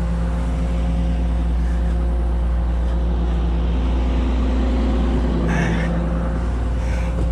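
Excavator's diesel engine idling steadily, with a brief hiss or scrape about five and a half seconds in.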